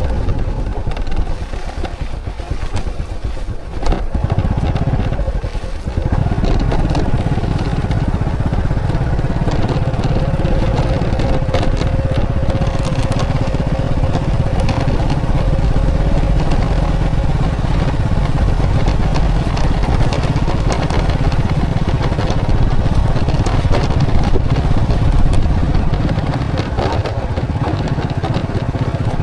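Motorcycle engine running as the bike rides along a road, a steady low rumble. It is quieter for the first few seconds and louder and steady from about six seconds in.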